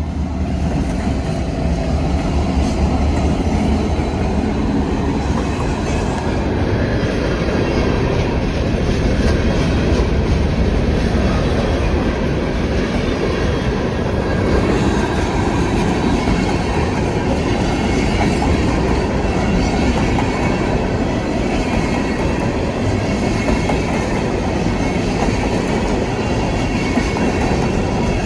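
Canadian National freight train rolling past, its cars' steel wheels running on the rails in a steady, continuous noise.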